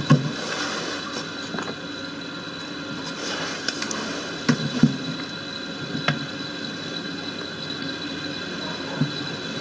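A few short knocks and clunks as the halves of a plastic washing-machine tank are handled, over a steady background hum.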